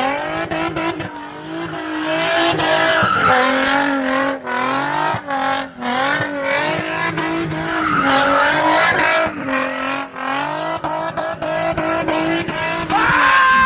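Car engine held at high revs, the pitch wavering up and down, while the tires spin and squeal in a burnout. The revs drop off at the end.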